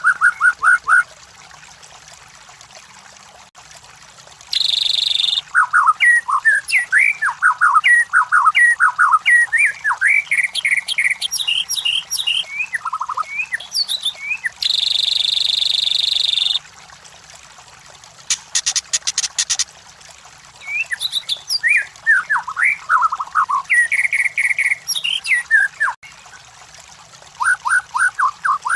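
White-rumped shama singing: bursts of quick, varied whistled notes that glide up and down, broken by short pauses. Two harsh buzzy notes of one to two seconds come about 4 s and 15 s in, and a fast rattle of clicks around 18 s.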